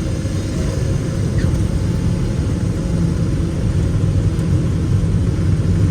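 Cessna 206 Stationair's piston engine running steadily with a low rumble.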